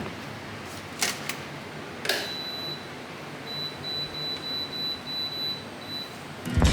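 A few knocks of cookware being handled, then a kitchen appliance beeping a high, thin tone in a broken series of beeps for about three seconds.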